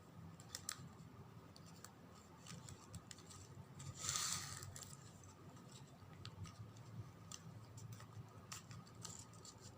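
Faint rustling and small clicks of ribbon being handled as its end is tucked into a slot of the fold, with a louder brushing swish about four seconds in.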